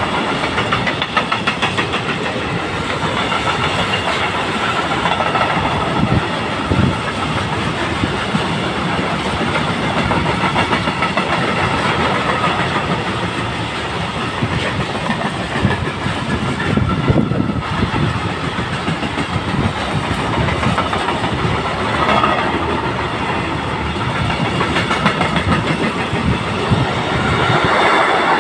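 ZSSK Cargo freight wagons, covered sliding-wall wagons and flat stake wagons, rolling past close by: a steady rumble of wheels with rapid clicking over the rail joints, and high steady tones above it at times.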